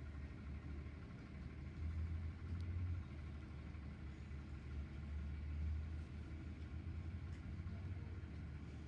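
Engine idling, a low steady rumble that swells a little a couple of times.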